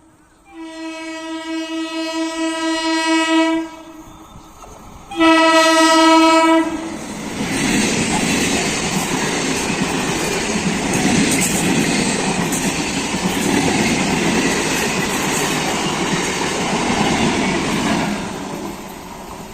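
Local passenger train sounding its horn twice: a long blast growing louder as it approaches, then a shorter one about five seconds in. It then rushes past at speed with about ten seconds of loud wheel-and-rail clatter, which falls away near the end.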